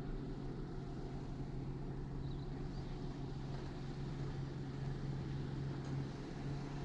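Jeep engine running steadily at low revs, a constant low hum, while crawling a slow, technical rock trail.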